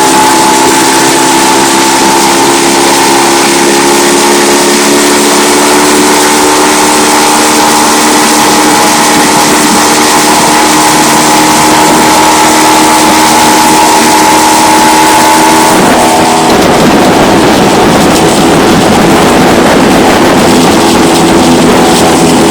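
Honda BF20 four-stroke outboard motor running steadily during its break-in, with a steady whining note. About sixteen seconds in, the steady note breaks up into a rougher, noisier sound.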